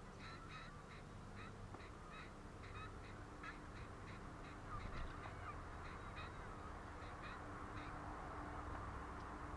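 A bird giving a quick series of short, harsh calls, about two or three a second, that stops near the end.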